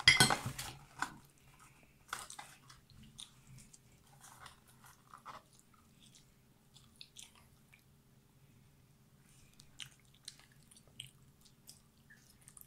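Chewing and biting on crispy fried chicken wings: scattered small crunches and mouth sounds, with occasional light clinks of a fork on a plate, over a faint steady hum. A short loud burst comes at the very start.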